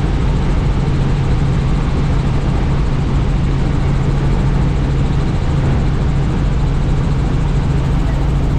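Helicopter in flight heard from inside the open-door cabin: loud, steady engine and rotor noise with a constant low hum under a rush of wind.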